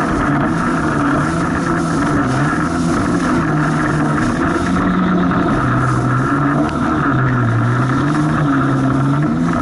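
Personal watercraft (jet ski) engine running under way, its note stepping down and back up several times as the throttle changes while riding through rough waves.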